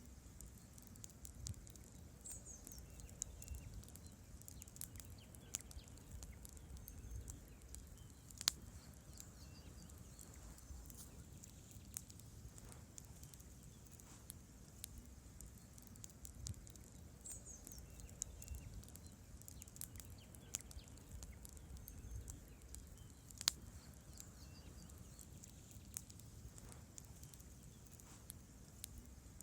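Wood campfire crackling: frequent small sharp pops and snaps of burning logs and branches over a low rumble of flames, with two louder snaps about eight and a half and twenty-three seconds in.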